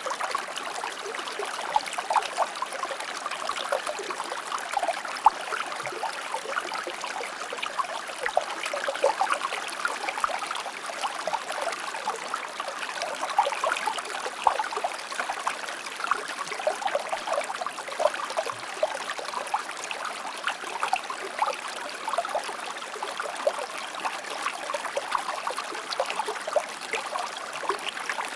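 Shallow stream or river flowing over stones, a steady babble full of small splashes and trickles.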